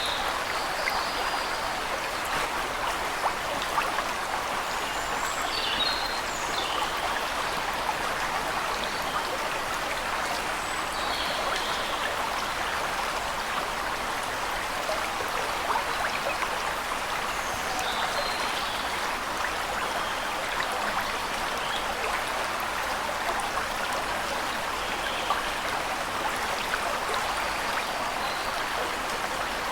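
Steady rushing water of a waterfall, with short high bird chirps every few seconds.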